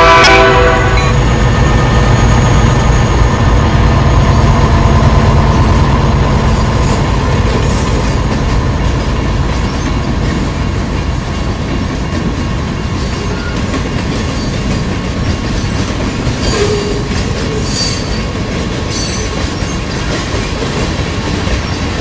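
A train passing close by. The last of its air horn ends about a second in, then the locomotive's diesel engines rumble past, and the cars roll by with steady rail noise, wheel clatter and occasional wheel squeal.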